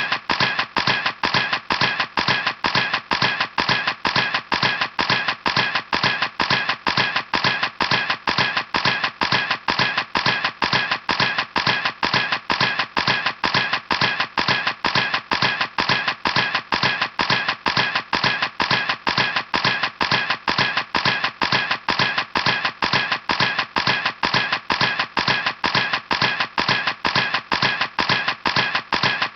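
Camera shutter clicking over and over in an even, rapid rhythm, about three clicks a second, like a camera firing in continuous burst mode.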